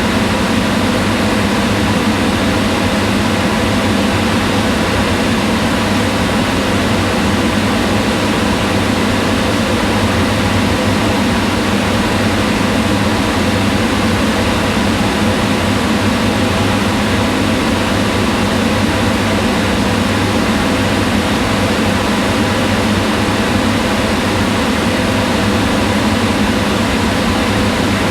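Kitchen range hood exhaust fan running steadily, a constant hum and rush of air with faint steady tones.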